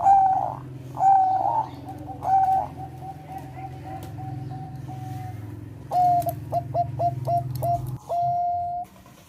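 Zebra dove of the Thai 'perkutut bangkok' type cooing: a few clear, loud coos in the first seconds, then softer trailing notes, then a quick run of short clipped notes ending in one longer held coo near the end. A steady low hum runs underneath.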